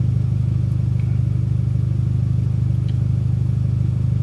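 Mitsubishi Lancer Evolution X MR's turbocharged 2.0-litre four-cylinder engine idling steadily, heard from inside the cabin.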